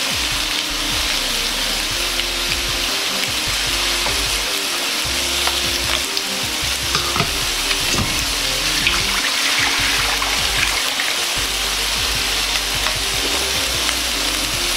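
Steady sizzling and crackling of chicken skin searing in its own rendered fat in a frying pan, over background music.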